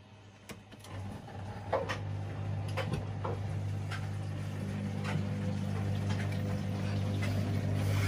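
Washing machine's drain pump starting about a second in and running with a steady hum, pumping out the wash water at the end of the main wash, with a few light clicks from the machine.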